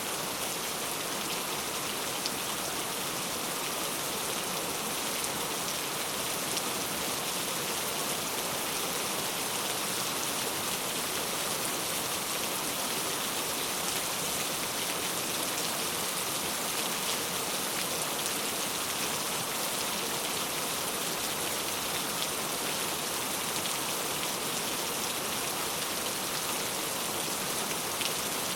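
Steady rainfall, an even hiss of rain with many small drop ticks, falling without let-up.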